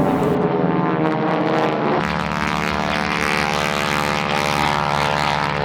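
North American Harvard trainer aircraft running their radial engines and propellers in a steady, loud drone. The pitch falls slightly over the first two seconds, then holds steady.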